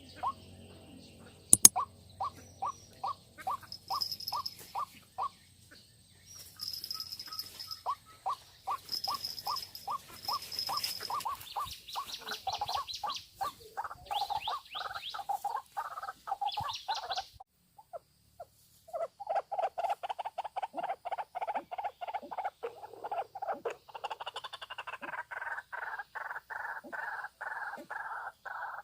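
White-breasted waterhen calling: long runs of quickly repeated notes, several a second, speeding up and slowing, with a short break about two-thirds of the way through. A single sharp click about two seconds in.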